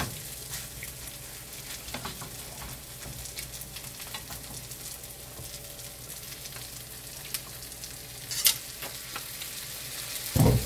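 Vegetable pancake batter frying in a non-stick pan, a steady sizzle, with a sharp click about eight and a half seconds in and a brief thump near the end.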